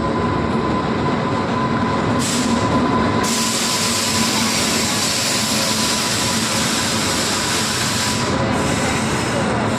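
Indian Railways express train running on the track: a steady, even rumble and rush of wheels on rails, with a thin constant whine under it.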